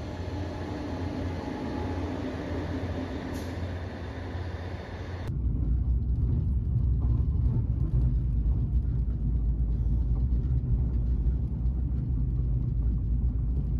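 Steady running noise of a moving vehicle. About five seconds in it changes abruptly to a louder, deeper rumble with little high sound.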